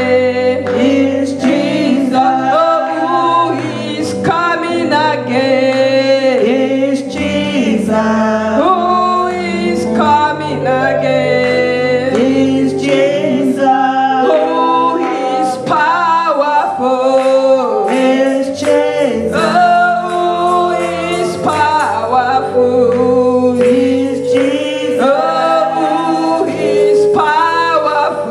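Gospel choir singing a worship song, several voices together over steady low accompaniment.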